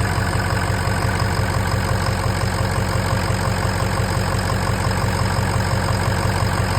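2003 Ford F250 Super Duty's 6.0L Powerstroke V8 turbodiesel idling steadily, running smoothly, through a turbo-back exhaust with no muffler or catalytic converter.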